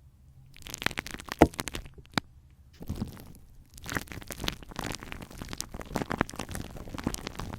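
Glue stick smeared over a microphone: dense, sticky crackling and popping that imitates rain. It starts about half a second in and breaks off briefly a little before the middle.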